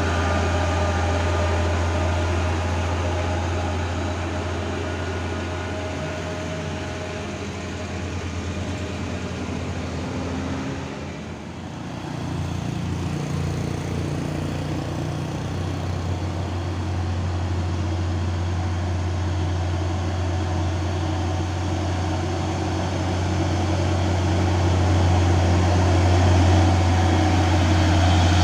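Heavy truck engines running under load on a steep uphill climb with a steady low drone. The sound dips briefly a little before the middle, then grows louder toward the end as another truck draws closer.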